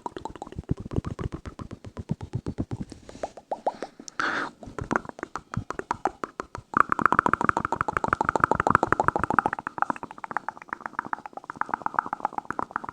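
ASMR mouth sounds close to the microphone: a rapid run of wet clicks and pops from the lips and tongue. About seven seconds in they become louder, faster and more even.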